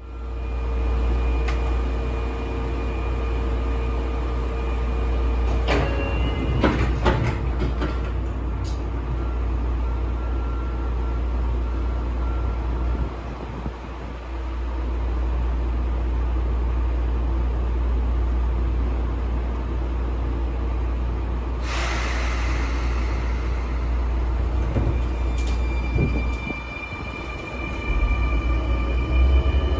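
Interior sound of a Sotetsu 9000 series commuter train car: a steady low rumble and hum with a few held tones, scattered clicks and knocks about six to eight seconds in, and a burst of hissing air about 22 seconds in that fades over a couple of seconds.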